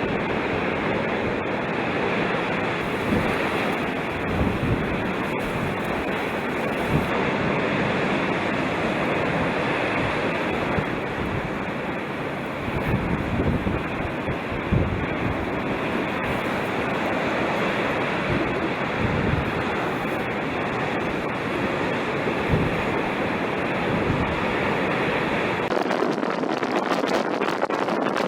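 Heavy storm surf crashing against the shore, a dense steady rush of water with irregular low thumps as waves break, mixed with strong wind buffeting the microphone. Near the end the low rumble drops away and the wind noise turns crackly.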